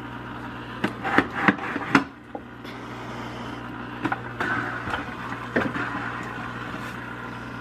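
SunSun 304B canister filter running with a steady low hum while it is rocked by hand to shake trapped air bubbles out after priming. The plastic housing knocks and rubs, with a cluster of sharp knocks between one and two seconds in and softer ones later.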